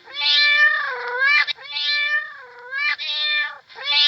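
A cat meowing over and over: long, drawn-out meows that dip in pitch in the middle, about four in quick succession.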